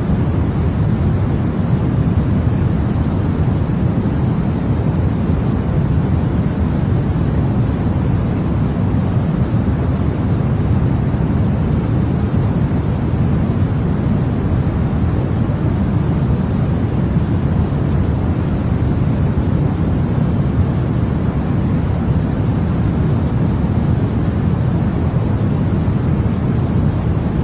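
Continuous baby-sleep 'white noise': a steady, unchanging rushing hiss, heavier in the low end than in the highs.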